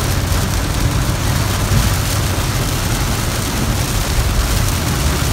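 Heavy rain on a moving car, heard from inside the cabin over the steady low rumble of the engine and tyres.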